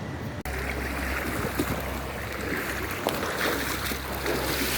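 Steady rushing noise of wind on the microphone and moving water by the shore, starting suddenly about half a second in, with a low rumble underneath.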